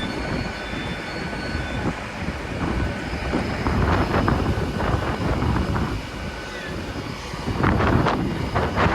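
GWR Class 802 bi-mode unit standing at the platform with its underfloor diesel engines running, a steady rumble. Wind buffets the microphone, with gusts surging about four seconds in and near the end.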